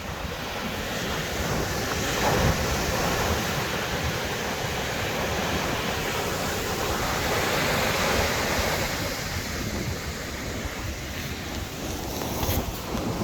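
Ocean surf breaking on a beach: a continuous wash of noise that swells and eases as waves come in, louder about two seconds in and again past the middle.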